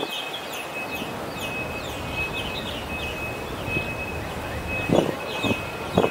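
Small birds chirping over steady outdoor city background noise, their calls short and falling in pitch. A thin steady high whine runs under the chirps, and two short low knocks come near the end.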